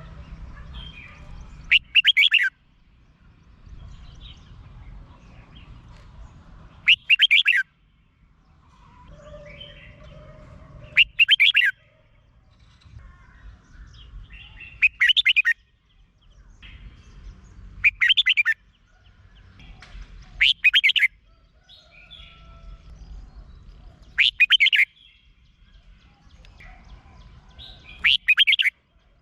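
Red-whiskered bulbul singing: a short, loud warbled phrase repeated about every three to four seconds, eight times, with fainter chirps between the phrases.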